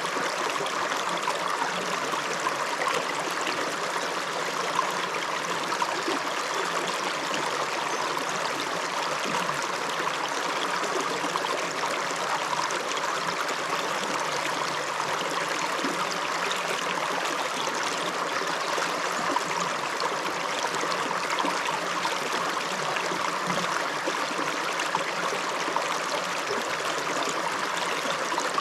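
Small upland river running over stones: a steady, even rush of flowing water.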